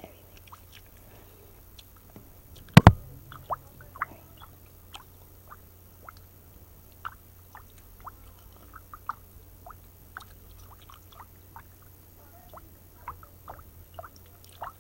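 Gum chewing close to the microphone: scattered small wet mouth clicks and smacks, with one loud thump about three seconds in.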